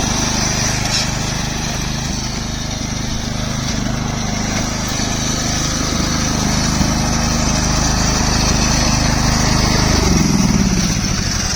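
Riding lawnmower engine running steadily and loudly. About ten seconds in its pitch falls as it slows down.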